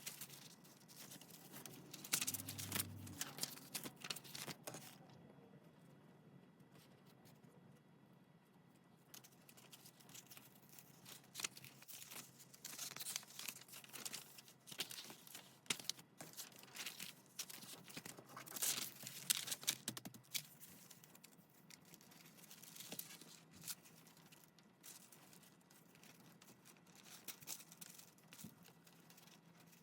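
Paper being handled for a junk journal: irregular rustling and crinkling in scattered bursts, loudest about two seconds in and again past the middle, with a quieter lull in between.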